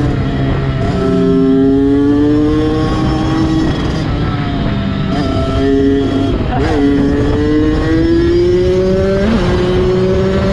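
Kawasaki dirt bike engines under acceleration, the pitch climbing through each gear and dropping back at each upshift, about four times.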